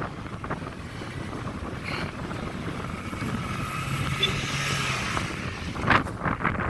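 Strong desert wind buffeting the microphone in uneven gusts, with a few sharp knocks about six seconds in.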